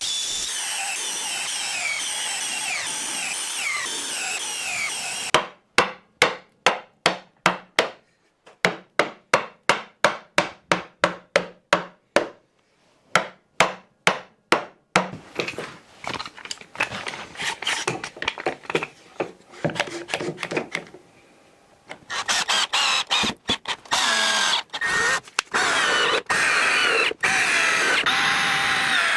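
Woodworking tools at work: a power tool runs steadily for about five seconds with a falling whine. Then come a long run of even, sharp strokes, about three a second, and near the end a power tool running in short bursts, stopping and starting.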